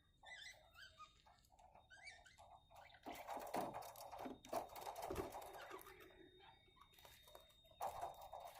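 Budgerigars chirping a few times. From about three seconds in, a run of clicks and rustles follows as they crack and peck at sunflower seeds.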